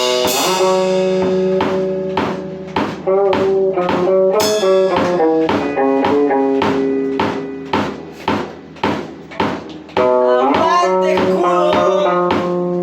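Metal band playing live: an electric guitar plays a riff of held, changing notes over a steady drum beat, with a cymbal crash at the start and another about a third of the way in.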